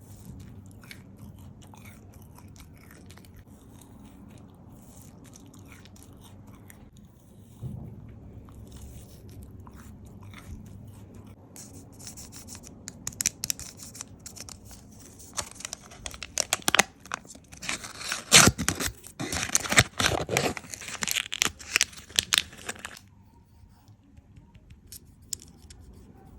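Close-miked eating sounds: soft smacks and chewing at first, then a stretch of loud, dense crunching and crackling about halfway through that stops suddenly near the end.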